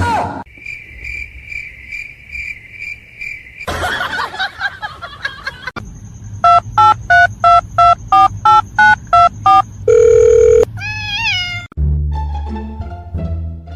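A string of electronic ringing and beeping tones like a telephone ring: a pulsing steady tone, then about a dozen quick beeps. A short low buzz and a few rising-and-falling whistling calls follow, and music with a bass line starts near the end.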